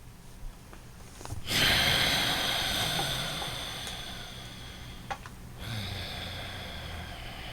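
Loud, deliberate breathing through the nose: one long breath of about four seconds, starting a little over a second in and fading off, then a second, quieter breath beginning a little before the end.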